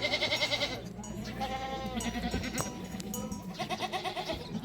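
Small livestock bleating: about three wavering calls, one sliding down in pitch at its end.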